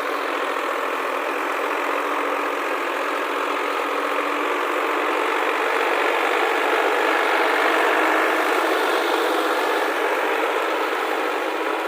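Heavy diesel engine running steadily, growing a little louder around the middle.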